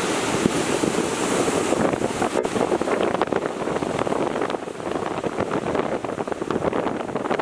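Heavy storm surf from an approaching typhoon breaking and washing up a sandy beach, with strong wind buffeting the microphone. The rush eases a little about halfway through.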